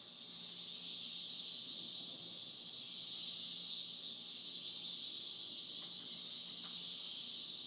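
Steady chorus of insects: a continuous, unbroken high-pitched shrill from many callers together.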